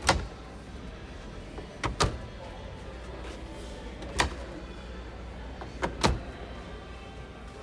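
A washing machine door being shut firmly four times, about two seconds apart, each a sharp bang over a steady low hum.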